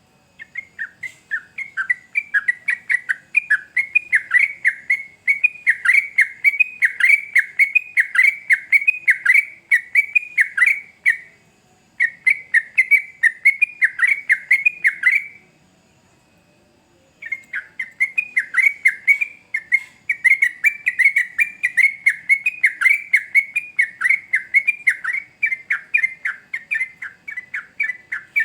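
Yellow-vented bulbul (trucukan) singing a long, fast run of repeated chattering notes at about four a second. It breaks off briefly twice.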